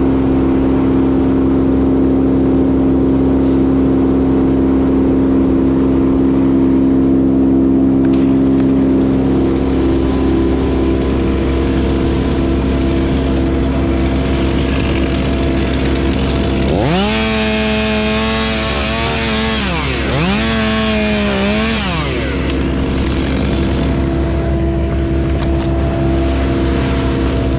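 A steady engine hum throughout, with a chainsaw revved to full speed twice about 17 seconds in, the first run about three seconds long and the second about two, each rising sharply and dropping back.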